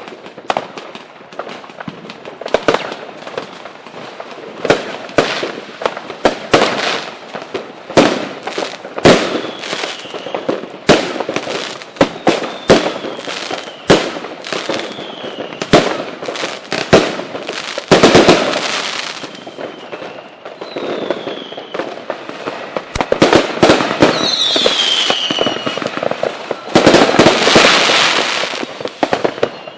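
Fireworks display: a rapid string of bangs, with several falling whistles and two longer bursts of crackling, the second near the end.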